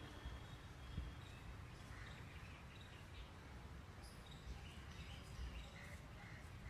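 Faint, scattered bird chirps over a steady low rumble of wind on the microphone, with a small knock about a second in.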